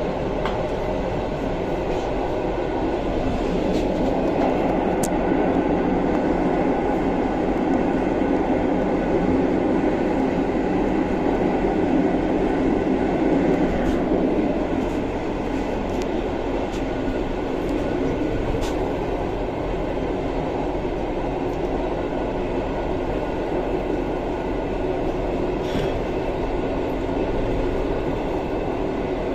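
Passenger train running noise heard from inside the carriage as it crosses a steel truss bridge: a steady rumble of wheels on rail with a few faint clicks, louder for the first half and easing off about halfway through.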